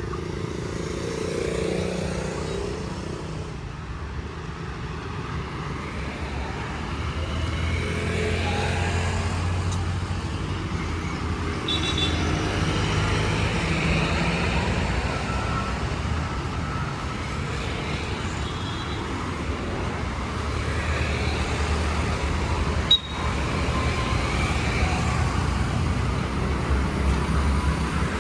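Road traffic going by: engines running in a steady low rumble, with a single sharp click about three-quarters of the way through.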